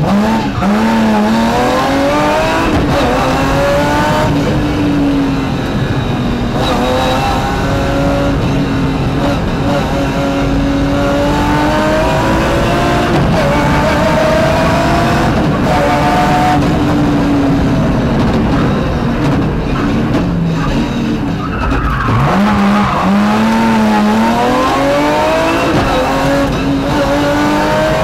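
BMW rally car's engine heard from inside the cockpit at full stage pace, climbing in pitch under acceleration and dropping sharply several times as the driver lifts and shifts, over constant road and drivetrain noise.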